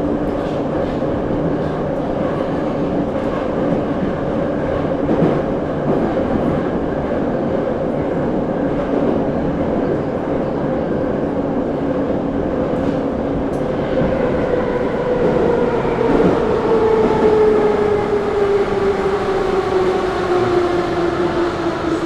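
Interior of a running 81-717-type Moscow metro car, with a steady motor and gear whine, wheel and rail noise, and a few clicks over rail joints. From a little past halfway the whine slides steadily down in pitch as the train slows.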